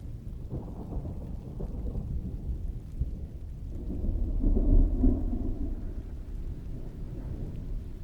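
Distant thunder rolling over steady heavy rain, the rumble swelling to its loudest about halfway through and then fading back.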